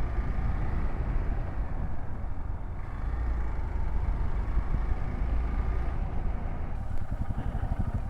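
Hero XPulse 200's single-cylinder engine running steadily while the motorcycle is ridden, a low rumble that turns into a quick pulsing beat near the end.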